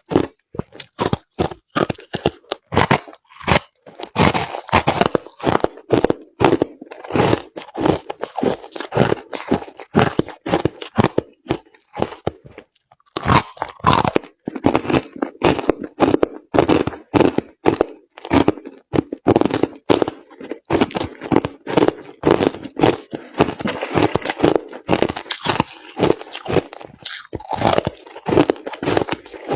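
Crushed ice being chewed, rapid crunch after crunch close to the microphone, with a brief pause about twelve seconds in.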